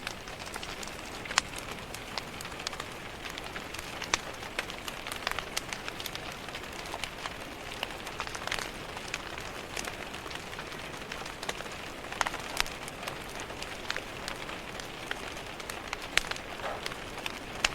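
Steady rain on window glass mixed with a crackling wood fire: a constant hiss of rain with frequent irregular sharp pops and snaps from the fire.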